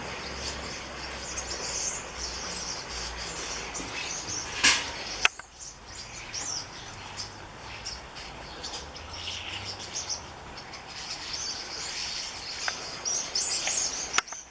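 A flock of birds, which the uploader takes for fieldfares, calling and chattering together with many short high chirps. A couple of sharp clicks sound about five seconds in.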